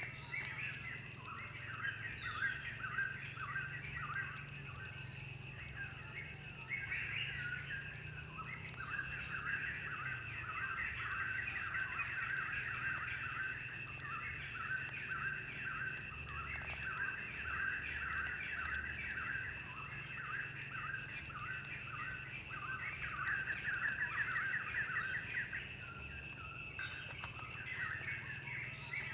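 Forest birds chirping in fast runs of short repeated notes, over a steady high-pitched ringing drone.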